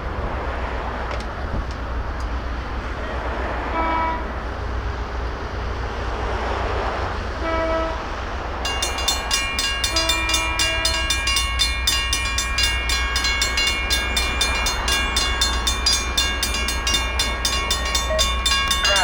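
An approaching EMD GP9 diesel locomotive sounds its horn in three blasts over a steady low rumble. About nine seconds in, the crossing's Safetran mechanical bell starts ringing in even strokes, about three a second, as the crossing activates.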